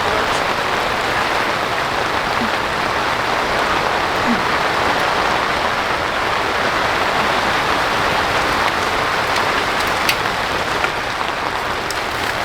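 Steady rain falling, an even hiss with a few sharper drop ticks near the end.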